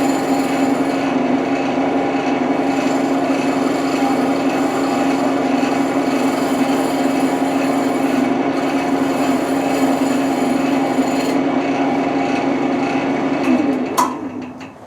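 Wood lathe running with a turning tool scraping on the spinning wood: a steady hum under a rough, rasping noise. Near the end the hum slides down in pitch and the sound falls away, with a sharp click, as the lathe is shut off.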